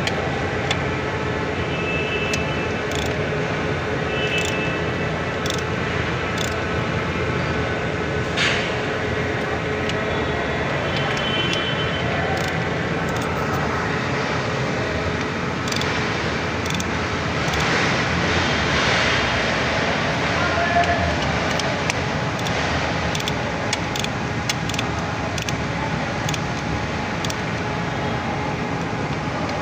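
Forklift engine running steadily, with scattered short clicks over the running noise.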